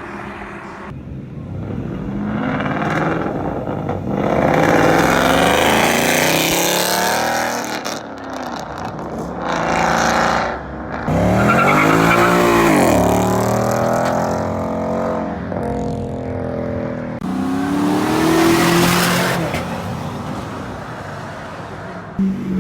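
Several cars revving hard and accelerating one after another, their engine notes rising and falling, with loud tyre squeal during the hardest surges.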